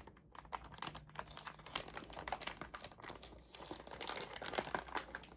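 Plastic packaging crinkling and rustling as it is handled, in a dense run of crackles with a short lull about three and a half seconds in.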